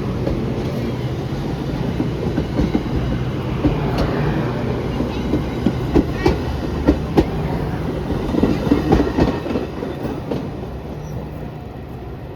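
A train rolling past, its wheels clacking over rail joints in quick pairs, with a steady rumble that fades near the end as it moves away.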